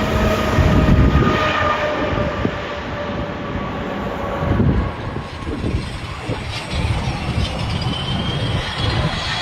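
Airbus A320's jet engines running at go-around power, a whine slowly falling in pitch over a gusty low rumble.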